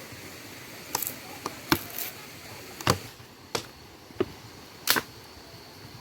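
A series of irregular sharp clicks and snaps, about eight over five seconds, over a steady background hiss.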